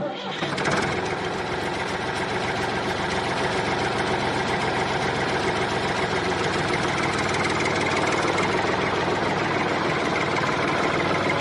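A small motor running steadily with a fast, even buzz. It starts abruptly and holds the same level throughout.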